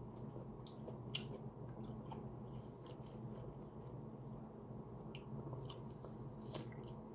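A person chewing a fried chicken tender, with scattered short, faint mouth clicks, and near the end a bite into a pickled jalapeno. A steady low hum runs underneath.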